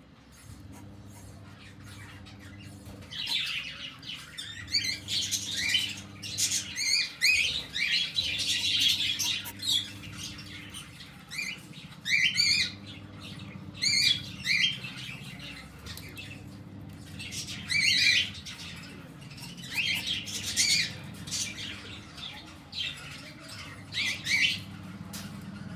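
Cockatiel chicks calling in repeated bursts of chirps and rasping squawks, starting a few seconds in, over a steady low hum.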